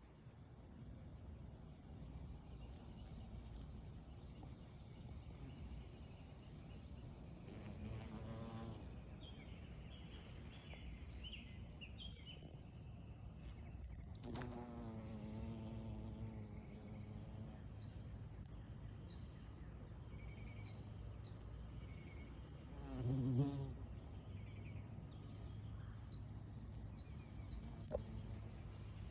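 Bumblebee buzzing in flight in three short bouts: briefly about 8 seconds in, for about three seconds from 14 seconds in, and loudest and closest about 23 seconds in. Behind it a high insect chirping pulses steadily a bit more than once a second, with faint bird chirps.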